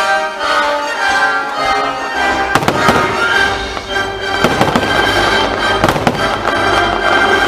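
Fireworks show: several sharp firework bangs, the first about two and a half seconds in, over the show's music soundtrack playing throughout.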